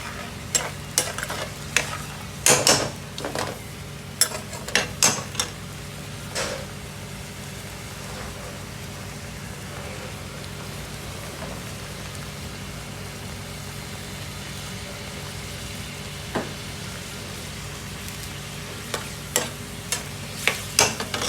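Metal utensils clanking and scraping against pans in a restaurant kitchen over a steady hum. The sharp clanks come in a cluster over the first several seconds, once more past the middle, and again in a cluster near the end.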